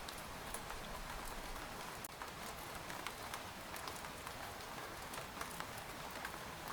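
Steady rain falling on tent fabric, a constant hiss with many individual drops tapping distinctly at irregular moments.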